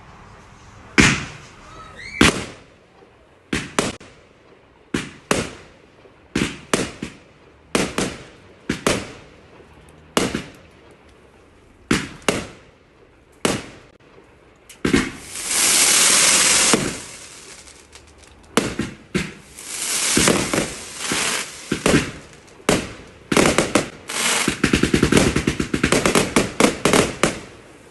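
Fireworks going off: a run of sharp bangs roughly a second apart, a sustained crackling hiss for about two seconds halfway through, and a rapid string of bangs near the end.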